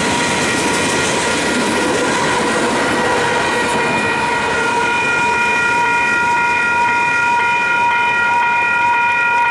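Freight train rolling by with wheel clatter that thins out after a few seconds as the last cars pass. Over it, a grade-crossing warning bell rings steadily.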